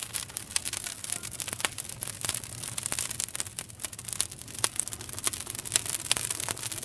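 Wood campfire crackling: a dense run of quick, irregular snaps and pops over a steady hiss.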